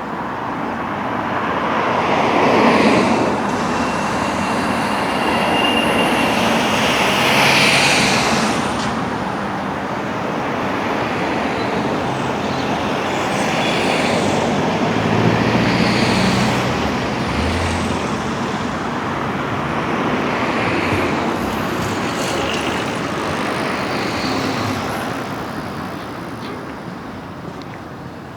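Road traffic passing, a steady wash of vehicle noise that swells and fades, loudest about three and eight seconds in and easing off near the end.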